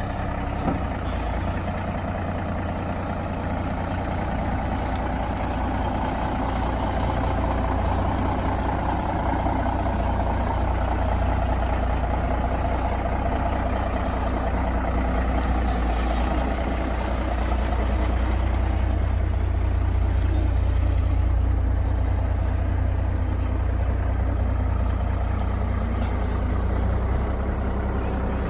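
Kenworth W900 semi truck's diesel engine running steadily with a deep rumble, growing a little louder past the middle.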